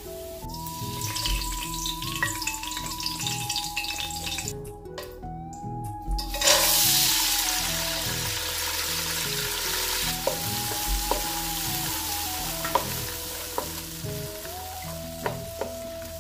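Oil sizzling in a large aluminium pot: onions frying, then a sudden loud sizzle about six and a half seconds in as green peas go into the hot oil, settling to steady frying. A wooden spatula stirs and clicks against the pot a few times near the end.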